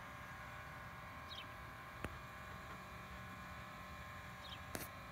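Faint outdoor background with a small bird giving two short high chirps, about a second and a half in and again near the end, and two sharp clicks between them.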